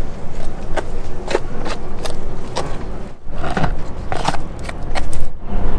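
Irregular sharp clicks and scrapes, about two or three a second, over a low steady rumble.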